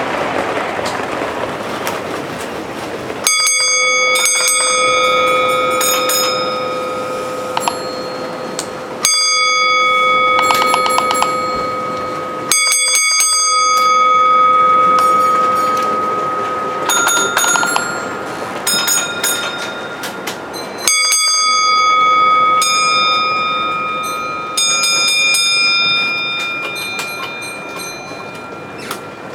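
A bell struck about four times, a few seconds apart. Each strike starts suddenly and rings on with several clear tones for several seconds before fading.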